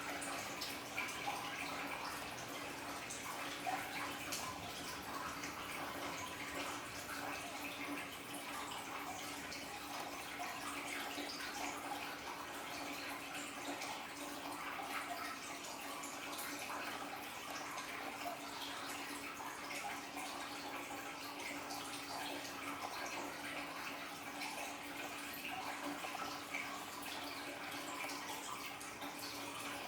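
Water from an aquarium waterfall splashing and trickling steadily, with small drips throughout and a steady low hum underneath.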